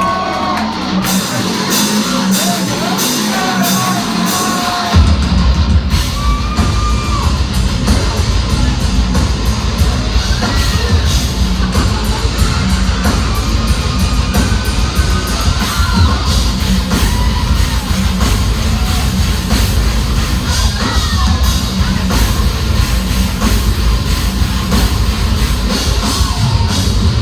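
Live heavy metal band playing through a club PA, with vocals and distorted guitar. The full band, with heavy drums and bass, comes in suddenly about five seconds in and drives on steadily.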